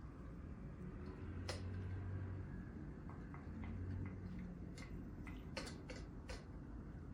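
A dog eating food from a bowl: irregular crunches and clicks of food and teeth against the bowl, with a run of sharper clicks past the middle. A low hum sounds twice in the first half.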